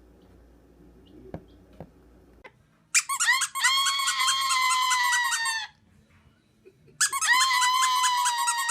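Two long, high-pitched squeals, each lasting over two seconds with the pitch falling slightly, the first about three seconds in and the second about seven seconds in.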